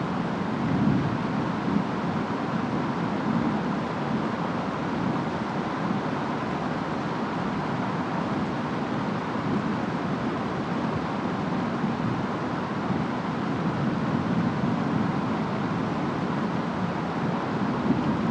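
Steady rainstorm with rain and wind, a constant hiss over a low rumble.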